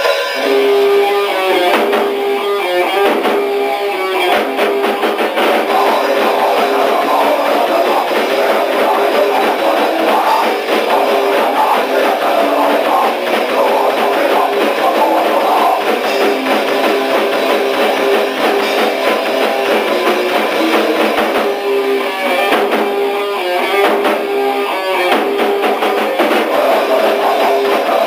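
D-beat raw punk band playing: electric guitar and drum kit, loud and dense throughout, in a thin-sounding demo recording with almost no low end.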